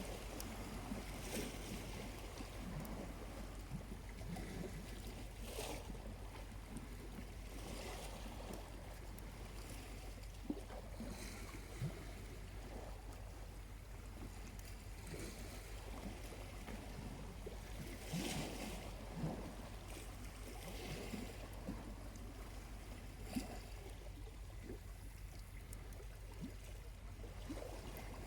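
Small waves lapping gently on a beach in soft swells every few seconds, with a few sharp pops from a burning charcoal campfire.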